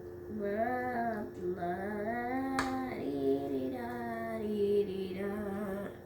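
A young girl humming a wordless tune in long, gently wavering notes, with a short click about halfway through.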